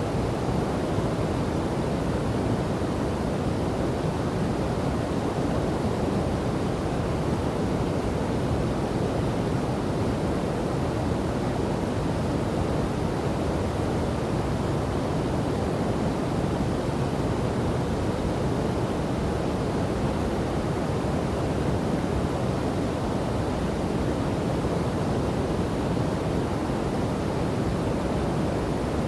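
Waterfall and river water rushing in a steady, unbroken, deep-toned wash with little hiss.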